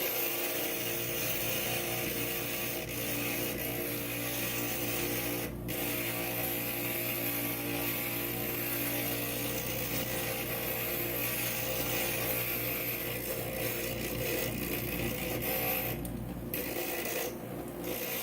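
Inland stained glass grinder running with a steady motor hum while a piece of glass is pressed against its bit, giving a gritty grinding hiss. The hiss breaks off briefly about five and a half seconds in and twice near the end as the glass is lifted away.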